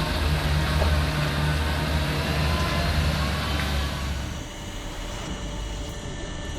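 Heavy truck's diesel engine running with a steady low drone, which drops away about four seconds in, leaving a quieter engine and road noise.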